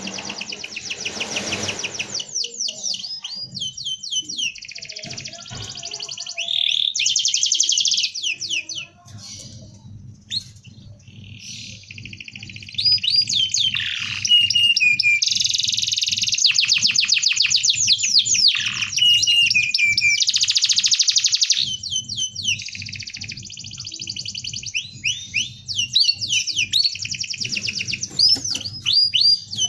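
Domestic canary singing a dense rolling song: long fast trills of rapidly repeated notes alternate with runs of quick downward-sweeping whistles, with a short softer pause about a third of the way in.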